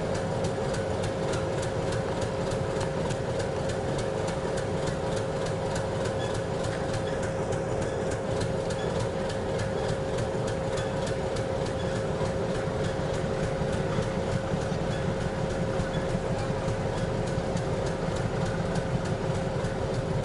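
YDM4 metre-gauge diesel locomotive engine running steadily, a constant droning hum with a fine regular ticking, growing slightly louder in the last third.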